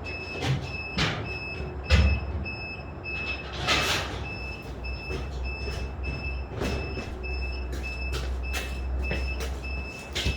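Construction-site noise: a steady low machine hum under a repeating electronic beep, about two a second, like a reversing or hoist alarm. Scattered knocks and clatters of building materials, with a heavy thump about two seconds in and a hissing scrape about four seconds in.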